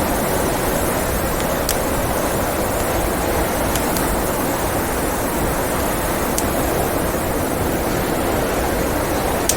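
Steady blizzard wind with a few sharp pops from a crackling wood fire scattered through.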